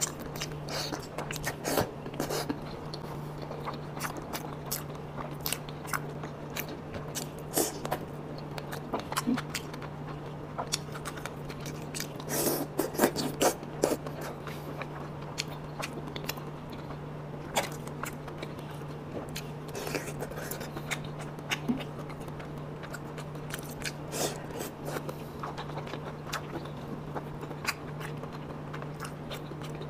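Close-miked eating: biting and chewing soft, saucy pieces of malatang, with scattered wet mouth clicks and smacks. A steady low hum runs underneath.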